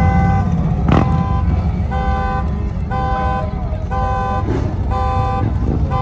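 A car alarm sounding a repeating horn-like tone, about half a second on and half a second off, roughly once a second, over a steady low rumble of cars. There is a sharp click about a second in.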